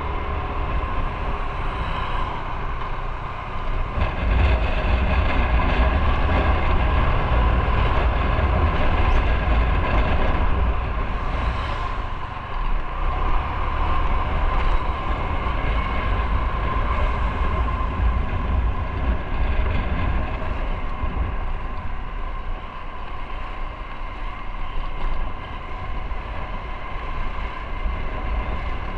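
Motorcycle engine running steadily under way, with heavy wind rumble on the microphone. The rumble grows louder about four seconds in and eases off after about twenty seconds.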